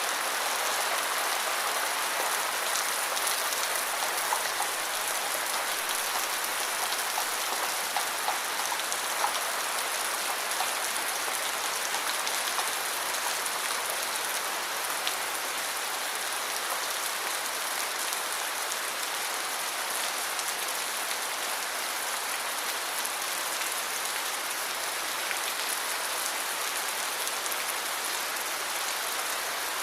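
Steady rainfall pattering on surfaces, a dense hiss with fine individual drop ticks and a few slightly louder drips in the first ten seconds.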